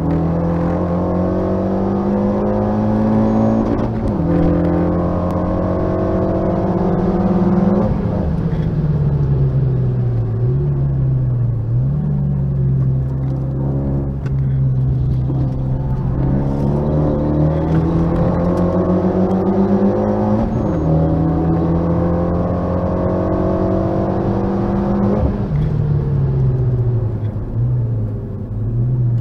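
Renault Mégane RS 265's turbocharged four-cylinder engine heard from inside the cabin, driven hard on track. It revs up through the gears with the pitch climbing and dropping at each upshift, then falls away as the car slows for corners, and does this twice over.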